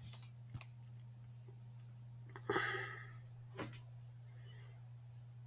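Quiet room tone with a steady low electrical hum, a few faint clicks and a breathy exhale about two and a half seconds in.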